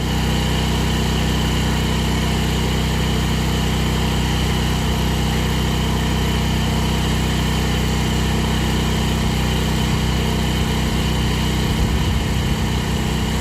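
A portable generator engine running steadily at constant speed, with a high steady whine above its hum. Near the end, a few clicks and a change in its hum come as the well pump is switched on and starts drawing power.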